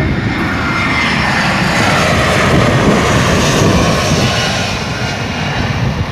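Airliner passing low overhead on its landing approach: a loud engine roar that swells to a peak about halfway through and then eases off, with a high whine in it over the first couple of seconds.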